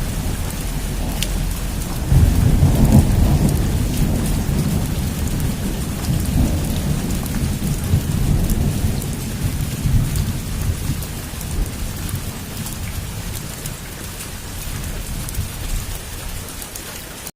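Heavy rain falling steadily, with a low thunder rumble that swells about two seconds in and slowly dies away.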